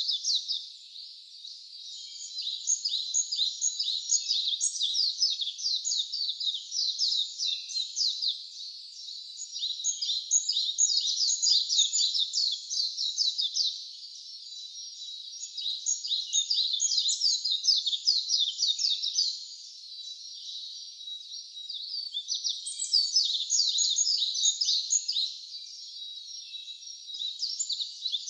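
Wild songbirds chirping in fast, dense runs of high-pitched notes, coming in loud bouts of several seconds separated by short lulls.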